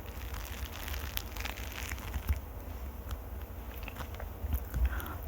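Close-miked ASMR scratching and crackling right on the microphone, with many small scattered clicks and a low rumble from handling.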